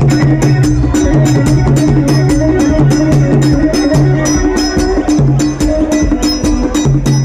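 Loud live band music: a bass line under a fast, even percussion beat of about four or five strikes a second.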